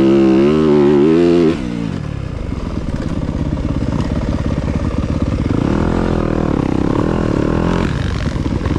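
Dirt bike engine revving hard with a wavering pitch, dropping away suddenly about a second and a half in. An engine note rises and falls again in the second half.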